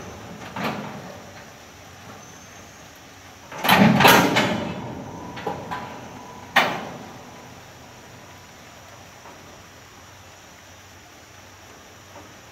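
Slack clanking through the couplers of a stalled, standing freight train: a few loud metallic bangs, the biggest cluster about four seconds in and one sharp bang near six and a half seconds, each dying away.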